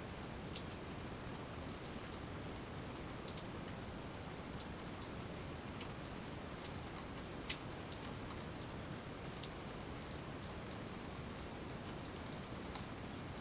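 Steady rain falling, with scattered drops ticking sharply over it; one drip stands out about seven and a half seconds in.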